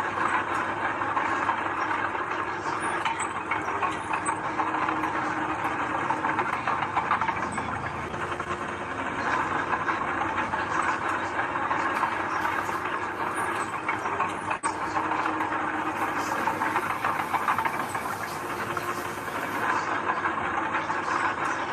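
Diesel engine of heavy earthmoving machinery running steadily under work, a continuous mechanical drone.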